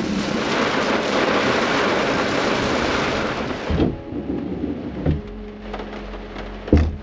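Heavy rain falling as a dense, steady hiss that cuts off abruptly a little over halfway through. After it comes a quieter stretch with a low steady hum and two short thumps.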